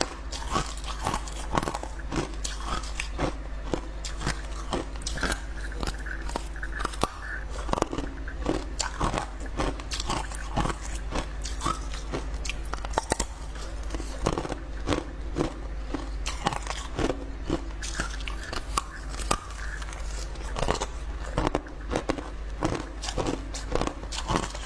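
A person biting and chewing clear ice, with a rapid, irregular run of sharp crunches and cracks as the ice breaks between the teeth.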